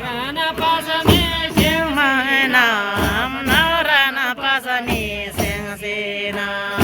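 Singing voice with a wavering melody that bends up and down, over percussion struck about twice a second.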